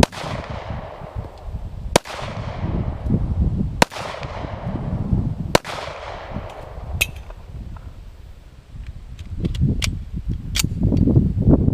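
Handgun shots: four loud shots about two seconds apart, each trailing off in an echo, then several fainter, sharper cracks near the end. Wind rumbles on the microphone throughout.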